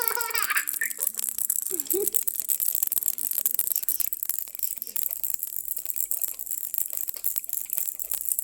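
Baby's toy rattle being shaken and rolled, a dense run of small rattling clicks throughout. Short bursts of a baby's voice come near the start and about two seconds in.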